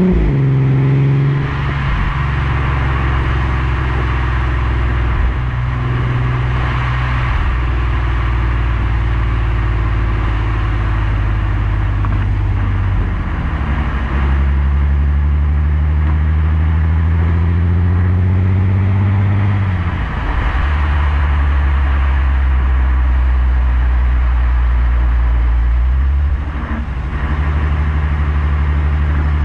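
Skoda Superb's 3.6 FSI VR6 running through a Gestec cat-back exhaust, driven at part throttle. The engine note climbs slowly and drops sharply several times: DSG upshifts, with one near the start, one about two-thirds of the way through, and another near the end.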